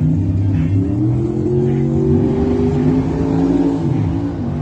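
Car engine revving, its pitch rising and falling slowly over a few seconds.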